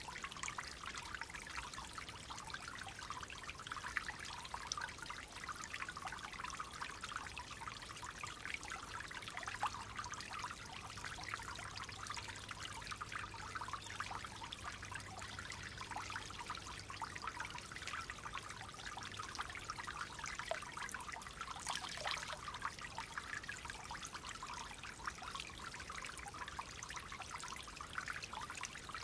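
Clear water flowing and trickling steadily, with a constant fine splashing.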